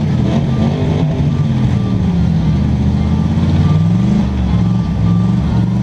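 Demolition derby cars' engines running and revving, several pitches rising and falling together.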